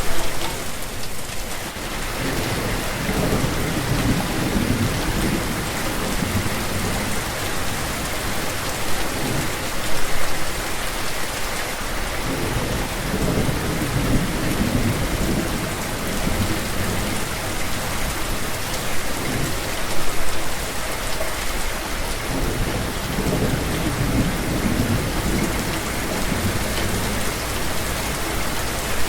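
Steady rain falling, with low thunder rumbling in long rolls two or three times.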